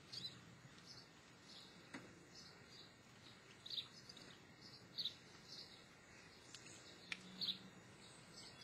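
Faint short high chirps from a bird, repeating irregularly about once a second or so, over a low background hiss, with a couple of soft clicks.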